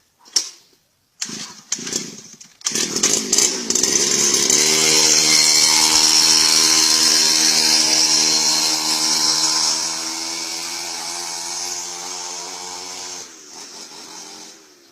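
Small engine: a few short bursts, then it catches and runs steadily at high speed. It eases down about ten seconds in and cuts off near the end.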